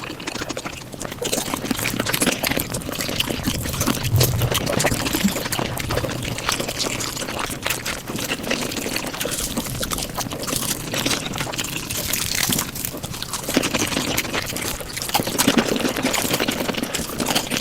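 Mukbang eating sounds played back at five times speed: chewing and mouth noises run together into a dense, continuous crackle of tiny clicks.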